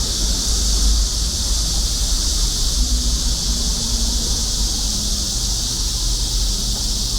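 Cicadas droning in a steady, unbroken high-pitched summer chorus, over a low outdoor rumble.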